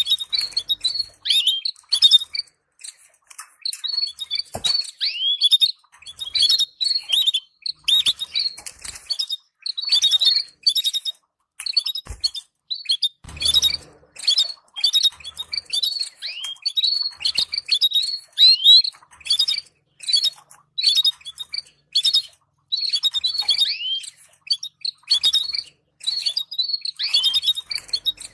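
Canaries giving rapid, short, high chirping calls in quick bursts separated by brief pauses, the kind of chirping played to stimulate breeding pairs.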